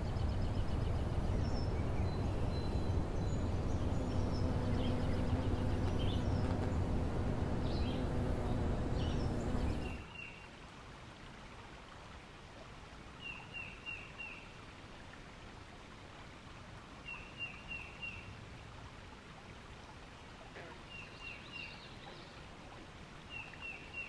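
Outdoor ambience in two takes. The first ten seconds are a steady, fairly loud noise with a low hum under it and a few bird chirps. Then it cuts to a much quieter background in which a bird gives a short call of three or four quick high notes about every three to four seconds.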